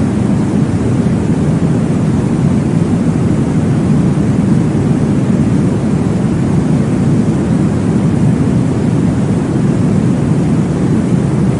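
Steady, deep rushing noise from a baby-sleep white-noise track, heaviest in the low range, with no breaks or beats.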